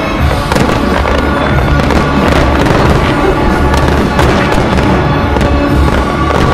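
Fireworks firing and bursting in rapid succession, many sharp bangs and crackles, over loud music: a choreographed pyromusical display with fanned volleys of ground-fired comets and aerial shells.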